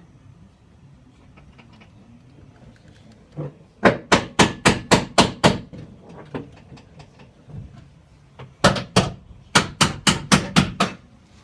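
Hammer blows on metal in two quick runs of sharp strikes, about four to five a second, the first about four seconds in and the second near the end.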